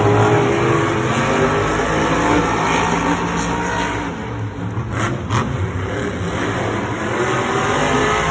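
Monster truck engines racing at full throttle, revving with the pitch rising and falling. There are two short sharp cracks about five seconds in.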